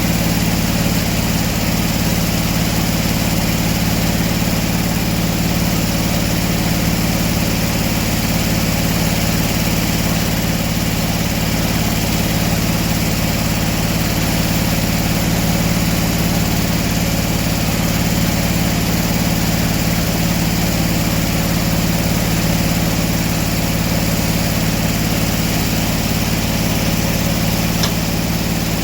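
Engine running steadily at a constant speed, with a low hum that does not change.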